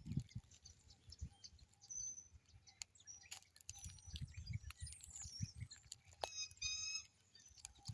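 Birds chirping and calling faintly, with scattered short chirps and a brief repeated call about six and a half seconds in. Irregular low thuds sound underneath.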